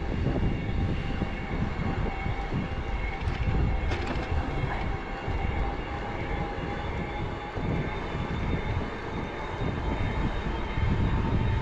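Wind buffeting the microphone of a moving e-bike, a fluctuating low rumble, with road noise and a faint steady whine underneath.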